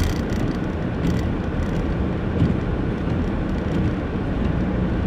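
Car driving on a snow-covered road: a steady low rumble of tyres and engine.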